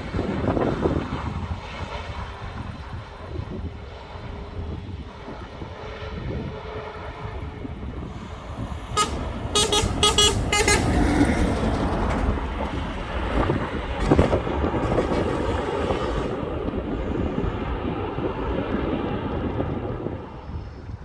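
Airbus A350-1000 jet airliner landing: a steady broad jet rumble mixed with wind on the microphone, swelling in the middle. About nine seconds in, a quick run of short horn-like beeps sounds over it for a couple of seconds.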